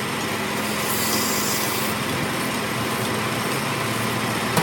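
A machine running steadily, a constant hum under an even noise, with a brief faint hiss about a second in.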